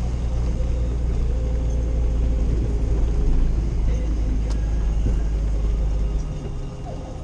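Old Jeep driving on a snow-covered road, heard from inside the cabin: a steady low engine and road drone that eases off about six seconds in.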